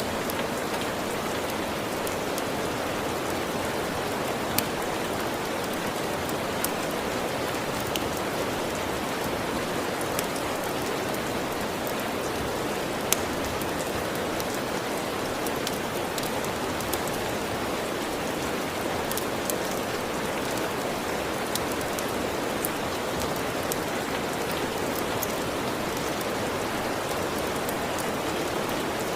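Steady rain making an even hiss, with a dozen or so sharp pops at irregular moments from a crackling fire.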